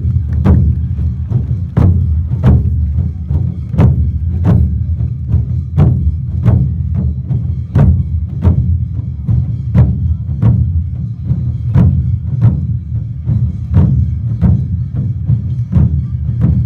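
Awa Odori "zomeki" festival music from massed dance-troupe bands: a dense low drum rumble under sharp, evenly spaced percussion strikes, about three every two seconds, keeping the steady two-beat rhythm.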